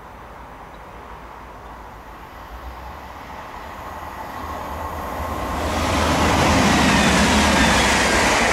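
A train approaching and passing, rumbling and growing louder to a peak in the last few seconds, with a high whine that falls in pitch as it goes by.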